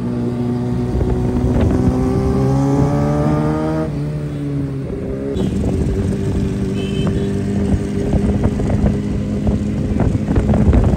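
A 125 cc motorcycle engine under way, pulling up in pitch as it accelerates, dropping sharply at a gear change about four seconds in, then running steadily.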